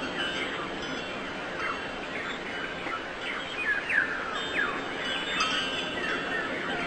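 Several birds chirping, a run of short downward-sliding notes one after another over a steady background hiss.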